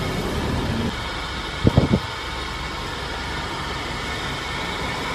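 Steady engine and road noise heard from inside a moving road vehicle, with two short sounds close together a little under two seconds in.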